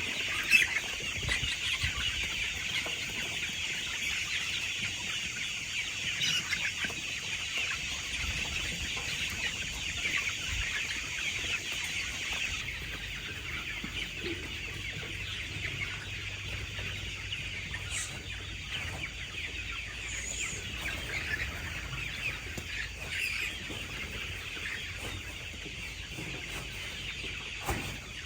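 A large flock of chickens clucking and chirping all at once, a dense, steady chatter of many overlapping calls.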